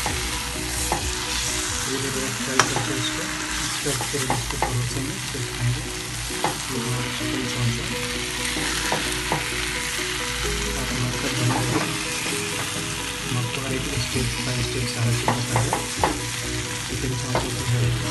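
Chicken pieces in thick masala sizzling in a kadhai as the dish nears the end of cooking. A steel spatula scrapes and clicks against the pan many times as it is stirred.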